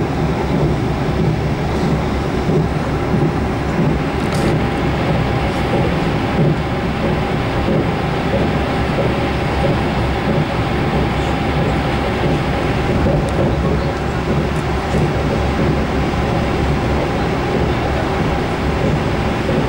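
Steady running noise of a moving train heard from inside the passenger carriage: a continuous low rumble with a faint steady tone above it.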